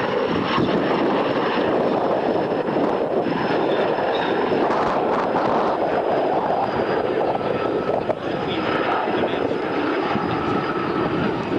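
Airplane engine running during a display flight: a steady, loud noisy drone with a faint high whine that falls slightly.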